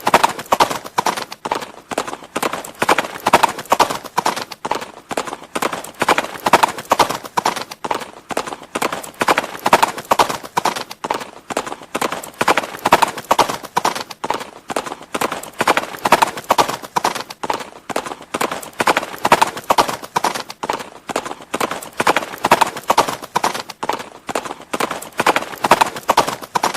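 Horse hooves clip-clopping in a quick, steady run of strikes that swell and fade in a cycle repeating about every three seconds.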